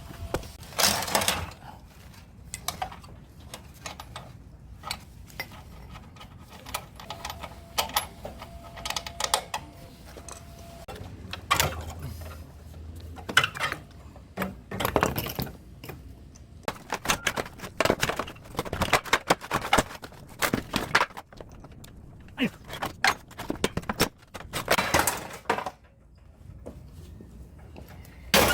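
Irregular metallic clanking and knocking as parts of a scrapped air-conditioner outdoor unit are handled and taken apart, with sharp clatters scattered throughout.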